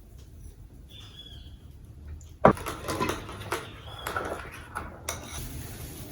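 Kitchen clatter: a sharp knock about two and a half seconds in, then irregular clinking and scraping of dishes and cutlery.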